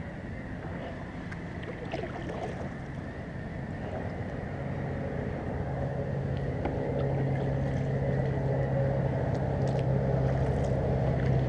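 A motorboat engine's steady drone across the water, growing louder over the second half as the boat draws nearer.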